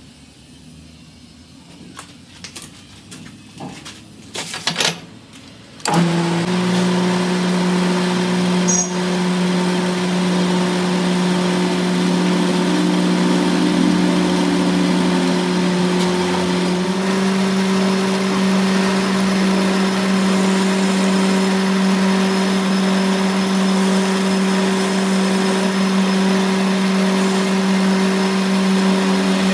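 A few knocks and clicks, then about six seconds in a machine motor starts suddenly and runs with a steady hum, shifting slightly in pitch about halfway through.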